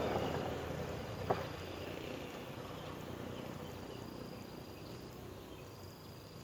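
Insects calling in high, steady chirrs of about a second, repeating every two seconds or so, over a low rumble that fades away in the first couple of seconds, with a single sharp click just over a second in.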